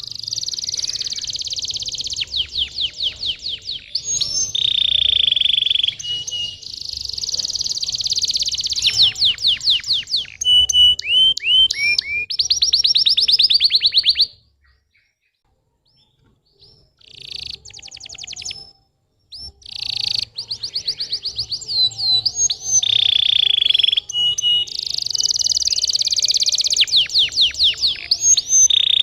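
Domestic canary singing: long, fast trilled rolls and quick runs of repeated notes. About halfway through, the song drops out for a few seconds, with only a couple of short bursts, then starts again.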